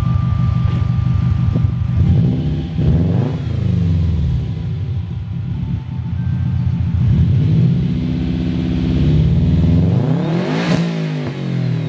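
A 2005 Subaru WRX's turbocharged flat-four heard through its exhaust: idling steadily, then revved up and down several times. The highest rev peaks about ten seconds in and falls back.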